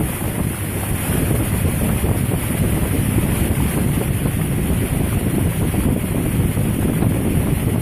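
Steady, loud wind buffeting the microphone, heaviest in the low range.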